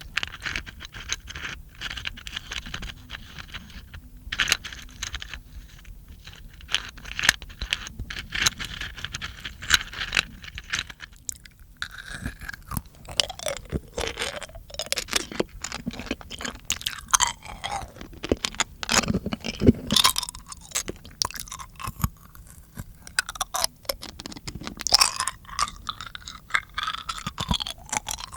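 Close-miked mouth sounds for ASMR: a dense, irregular run of wet clicks, smacks and crunch-like ticks from the lips, tongue and teeth.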